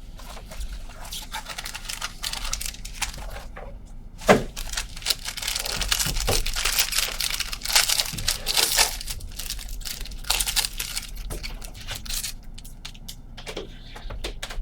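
Plastic wrap crinkling and tearing and cardboard clicking as a sealed box of trading cards is opened by hand, with a sharp snap about four seconds in and the busiest crackling just after it.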